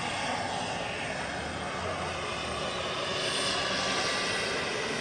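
Large radio-controlled Mi-24 scale model helicopter running, its engine and rotors making a steady, even noise.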